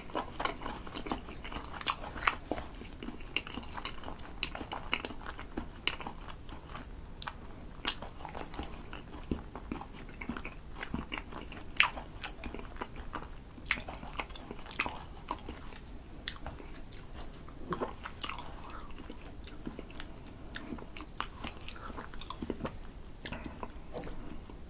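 Close-miked chewing of a mouthful of spicy-glazed grilled sea eel: irregular wet mouth clicks and smacks that keep coming throughout.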